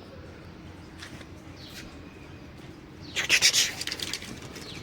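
Birds chirping faintly with a few short falling chirps, then a louder harsh, noisy call about three seconds in.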